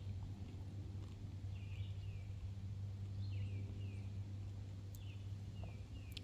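A bird calling in short, high, downslurred notes, repeated in small series several times, over a steady low hum.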